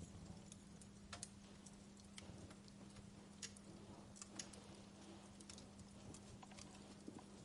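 Wood fire in a fireplace crackling quietly: irregular sharp pops and snaps, a few louder ones about a second in and around three and a half to four and a half seconds in, over a steady low hum.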